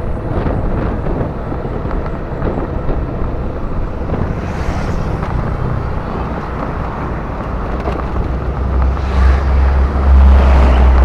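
Motorcycle engine running while riding on the road, with road and wind noise. A low rumble grows louder from about eight seconds in.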